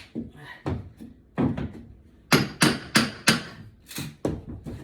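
Hammering on wooden baseboard trim, about a dozen sharp blows in uneven groups of two or three, as the trim is knocked loose from the wall.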